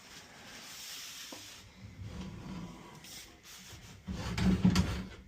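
Sewer camera push cable rubbing and scraping as it is fed through a cast iron drain line, with a louder, rougher stretch of scraping near the end.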